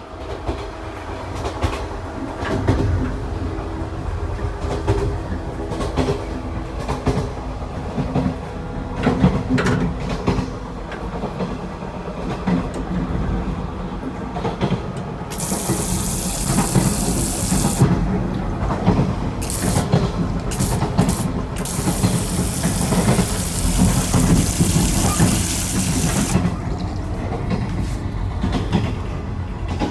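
Running noise of a JR 415 series electric train, a steady rumble with rail-joint clicks. About halfway through, a loud hissing rush of liquid comes in for a few seconds, then again for about four seconds: the flush of the train's recirculating toilet.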